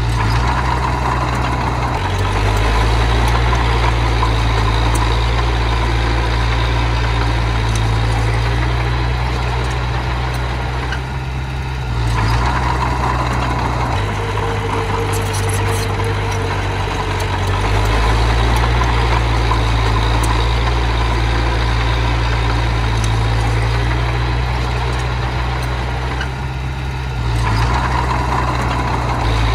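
Miniature bulldozer's engine running steadily, its pitch and load shifting in steps several times as it works.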